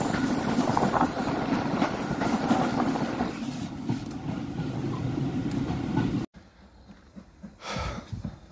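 Steam-hauled heritage passenger train running along the track, heard from an open carriage window: a dense rumble and clatter of wheels on rail, with a thin high wheel squeal in the first second or so. About six seconds in it cuts off abruptly to a much quieter scene with one brief burst of noise near the end.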